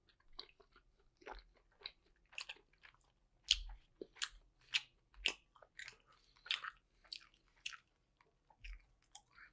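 A person chewing a soup dumpling (xiao long bao), a string of short chewing sounds about two a second, the loudest about three and a half seconds in.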